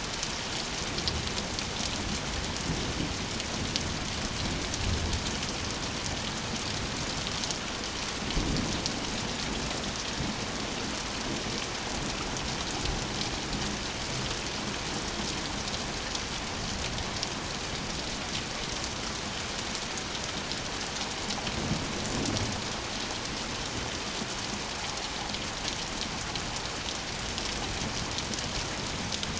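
Steady rain pattering on surfaces, with low rumbles of thunder swelling up twice, about a third of the way in and again near three quarters through.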